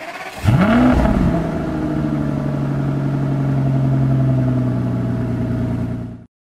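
Aston Martin DB9's V12 starting: a short crank, then it catches with a loud flare of revs about half a second in and settles into a steady idle. The sound cuts off suddenly near the end.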